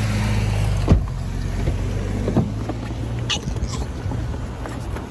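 Car cabin noise while driving: a steady low engine and road hum, with a sharp knock about a second in and a few light clicks toward the end.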